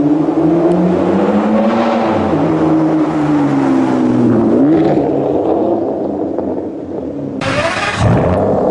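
A supercar engine accelerating, its pitch climbing and dropping back as it pulls through the gears. Near the end comes a short, loud rushing blast, then the engine climbs again.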